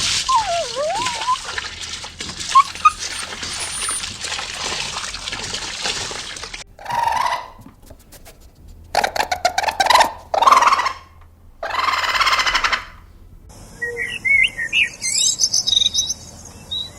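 A string of short, abruptly cut animal sound clips, ending with a few seconds of quick, high bird chirps.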